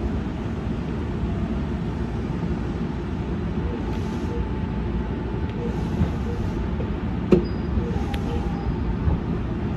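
Running noise of a Senboku Rapid Railway 5000 series electric train heard from just behind the cab, a steady low rumble as it moves slowly along the track. Two faint clicks come about seven and eight seconds in.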